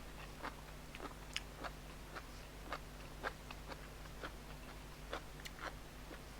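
A person chewing food close to the microphone: soft, wet mouth clicks repeating about twice a second.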